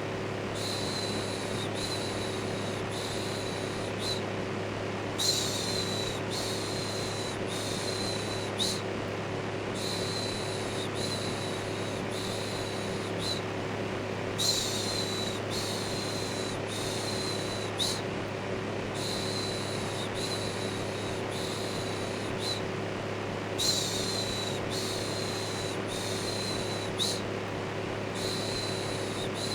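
Electric fan running with a steady hum, overlaid with a looped human 'shhh' shushing sound. The shushes repeat about once a second in runs of three or four, with a short pause between runs.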